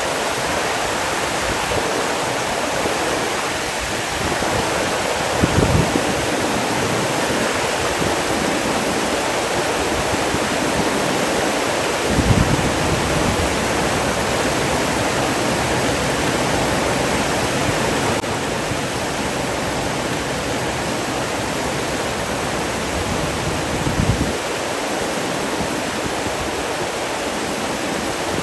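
Steady rush of running water, a waterfall or fast stream, with three brief low thumps along the way.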